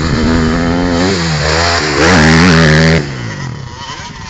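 KTM 250 SX-F motocross bike's single-cylinder four-stroke engine revving hard, its pitch rising and falling with the throttle. It is loudest about two to three seconds in, then the throttle shuts and the revs drop away suddenly.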